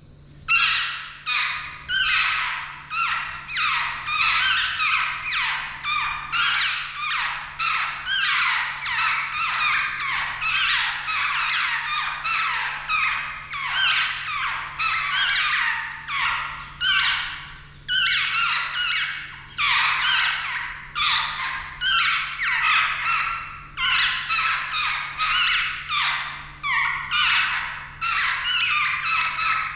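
Jungle babblers giving rapid, harsh, squeaky chattering calls, several a second, almost without a break.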